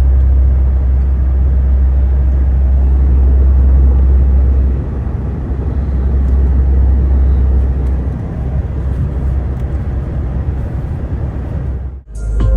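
Truck cab noise while driving: a steady deep engine drone with road rumble. The drone eases a little about five seconds in, and the sound cuts off abruptly near the end.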